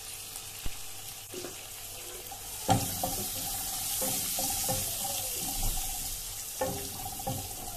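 Chopped onions, curry leaves and chilli powder sizzling in hot coconut oil in a frying pan as a wooden spatula stirs them. The sizzle grows louder about three seconds in, with a sharp knock of the spatula on the pan then and again near the end.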